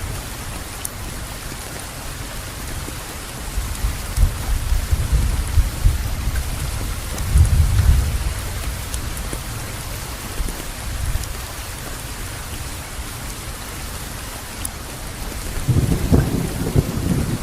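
Steady rain falling in an even hiss, with low rolls of thunder rumbling a few seconds in and again near the end.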